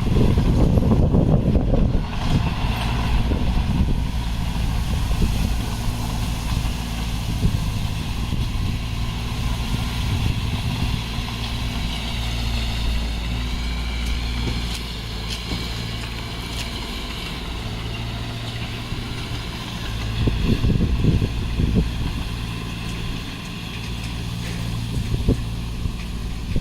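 Heavy diesel engine of earthmoving equipment running steadily, with louder, rougher spells in the first two seconds and again about three-quarters of the way through, and a wavering higher whine in the middle.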